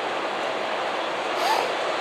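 Passing train's steady rolling rush of wheels on rail, with a short wavering squeal about one and a half seconds in.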